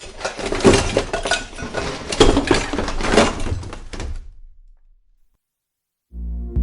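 Hard objects knocking and clattering together for about four seconds, fading out. After a short silence, music starts near the end.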